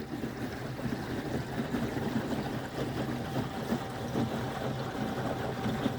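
Small boat under way on a Torqeedo electric outboard: water splashing and lapping along the hull and wind on the microphone, with a faint steady whine.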